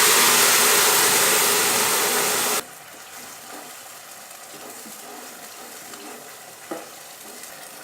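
Chicken masala gravy poured into a pan of hot oil and roasting coconut, hissing loudly. The hiss cuts off suddenly about two and a half seconds in, leaving a quieter steady sizzle.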